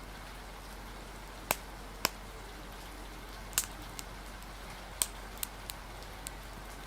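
Fire crackling, with about eight sharp irregular pops over a steady hiss of rain.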